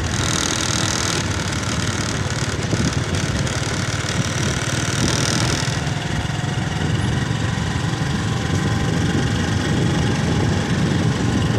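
Motor scooter's small engine running steadily while riding, with a high hiss rising over it briefly at the start and again about four to six seconds in.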